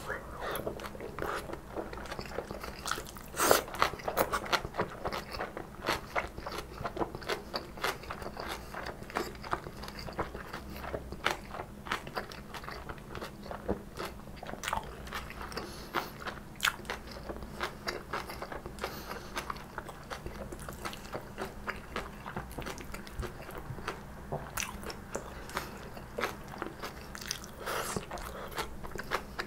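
Close-miked chewing of stir-fried kimchi and soft tofu: crisp, wet crunches from the kimchi, coming in a steady irregular stream of crackly bites. The loudest crunch comes a few seconds in, with another loud cluster near the end.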